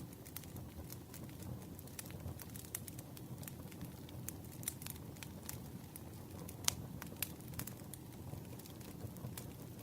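Campfire burning: a low steady rush of flames with frequent irregular crackles and pops of burning wood, a couple of louder snaps a little after halfway.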